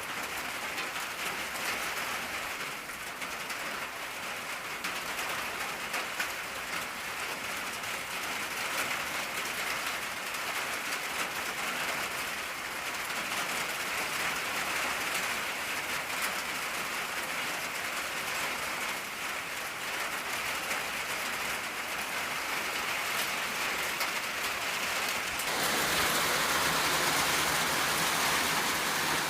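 Rain falling on an old tin roof: a steady patter with many single drops ticking on the metal. About 25 seconds in, the rain gets heavier and the patter grows louder.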